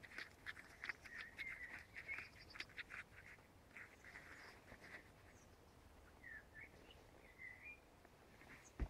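Faint woodland birdsong: a run of quick chirps and trills for the first few seconds, then a couple of short rising-and-falling whistles. A single sharp click near the end is the loudest sound.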